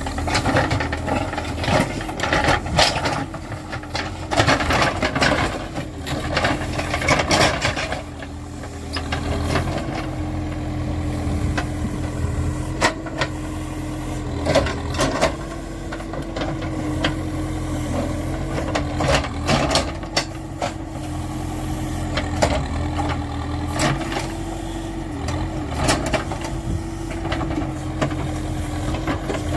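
Backhoe loader's diesel engine running steadily at working speed, with repeated knocks and clanks from the machine at work.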